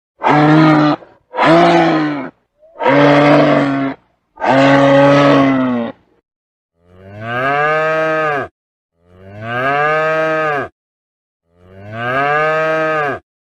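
A cow mooing seven times: four shorter moos in quick succession, then three longer moos spaced evenly apart.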